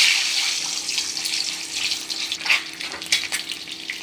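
Peeled boiled eggs hitting hot oil in a steel kadhai, setting off a loud sizzle at once that eases into steady frying with scattered pops and crackles.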